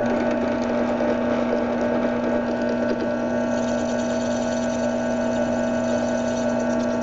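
A small electric power tool running at a constant speed, a steady mechanical whir with an even hum, used to adapt a plastic motor mount to fit a 540 motor.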